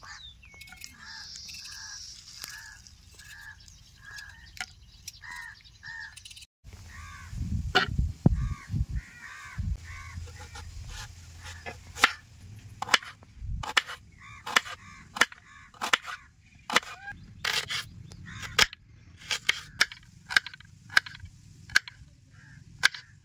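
A bird calling over and over in short harsh calls, about two a second. From about halfway through, a run of sharp knocks, roughly two a second, comes in and is the loudest sound.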